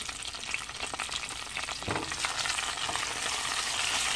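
Tomato wedges sizzling in hot annatto oil in a nonstick saucepan as they are lightly sautéed, with a spatula stirring them near the end. The crackling sizzle grows louder over the last couple of seconds.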